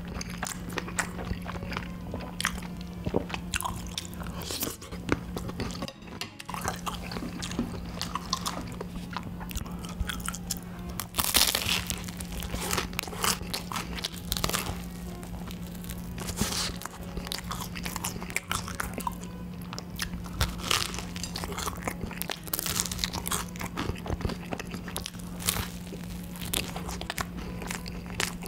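Close-miked eating: chewing and wet mouth sounds, then repeated bites and chewing of a whipped-cream-filled waffle, with crisp crunches from the waffle, the loudest about eleven seconds in. A steady low hum runs underneath.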